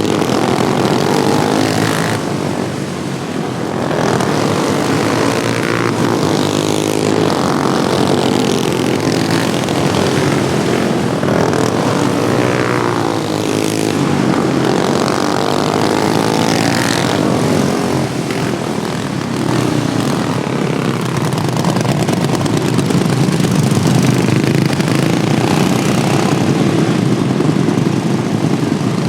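Several modified Wheel Horse racing lawnmowers running hard around an oval track, their small engines overlapping, with the pitch sweeping up and down again and again as the machines pass.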